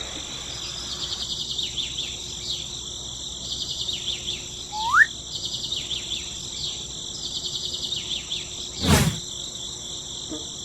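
Outdoor ambience of insects chirring steadily, with bird chirps, one short rising whistle about halfway through and a single sharp knock near the end.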